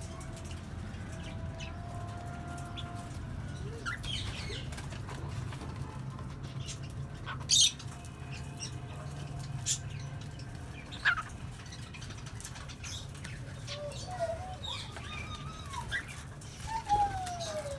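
A mixed aviary of small pet parrots (cockatiels, budgies and lovebirds) gives scattered short chirps and calls. The sharpest come about seven and eleven seconds in, and a burst of calls near the end includes one that falls in pitch. A steady low hum runs underneath.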